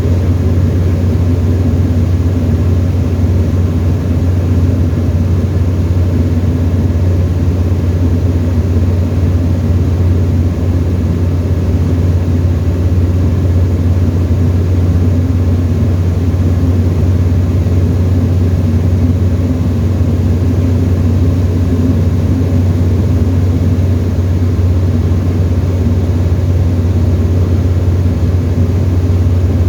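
Steady, loud drone of a Tecnam light aircraft's piston engine and propeller in level cruise, heard from inside the cockpit, with no change in engine speed.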